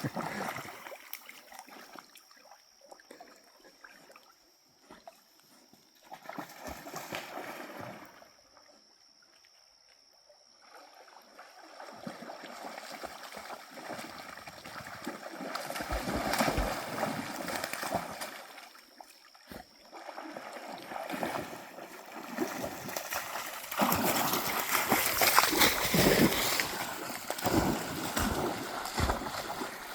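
Dogs splashing and wading through shallow water in irregular spells. It is quieter for the first several seconds and loudest over the last few.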